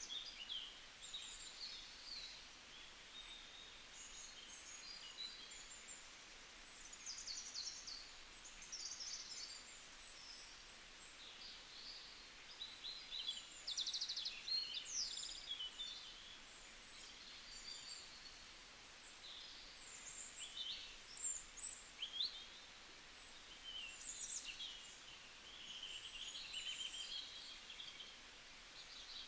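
Several small birds chirping and trilling at once, a constant scatter of short, high calls over a faint steady background hiss, busiest about halfway through and again later on.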